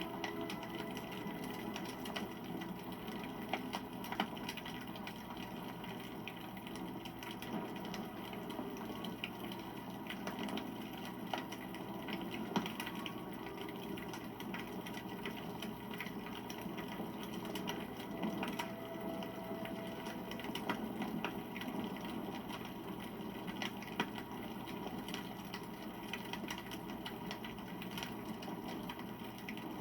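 Wood campfire burning: dense, continuous crackling and snapping over a low rush of flames, with a few louder pops now and then.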